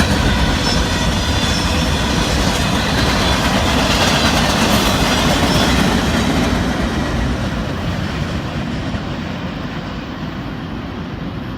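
Freight train of box cars rolling past at speed, the steady noise of steel wheels on the rails. About halfway through it fades as the train moves away.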